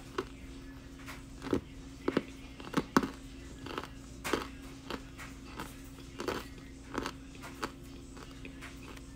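Close-up chewing of a mouthful of baked cornstarch, with irregular sharp crunches, a little under two a second.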